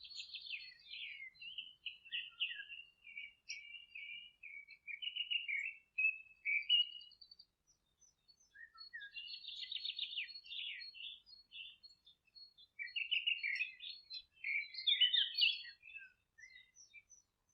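Songbirds singing in long, fast-running phrases of high notes, with a pause about seven seconds in before the song picks up again.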